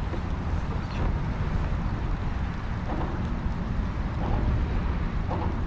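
Steady low rumble of wind buffeting the microphone over open water, with faint voices in the background.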